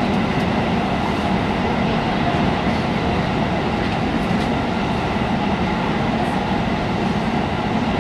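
313-series electric train running steadily through a tunnel, heard from inside the passenger car: an unbroken rumble of wheels on the rails and running gear, enclosed by the tunnel walls.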